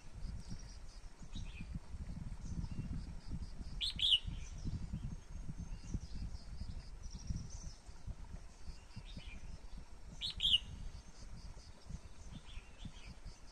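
Birds calling in short, sharp chirps, the loudest two about 4 seconds and 10 seconds in, with fainter high notes between them, over a low steady rumble.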